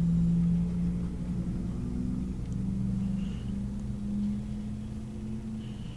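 A motor vehicle engine running with a low, steady hum whose pitch steps up slightly a couple of times.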